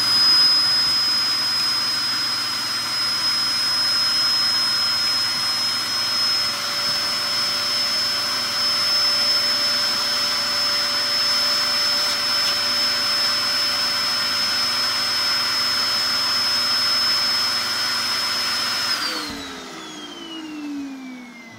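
Hoover Performer Pet HPT16 upright vacuum cleaner running with a steady high-pitched whine, its HEPA filter clogged with fireplace ash so it no longer picks anything up. Near the end it is switched off and the motor winds down, its whine falling in pitch.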